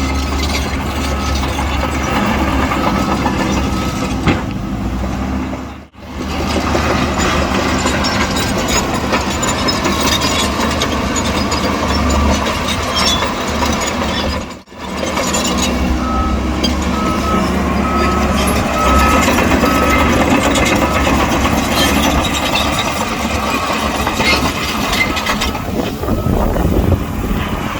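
Diesel engines of a Shantui bulldozer and dump trucks working earth, a steady heavy running noise with two brief drops out. Partway through, a reversing alarm beeps in a row of short, evenly spaced beeps.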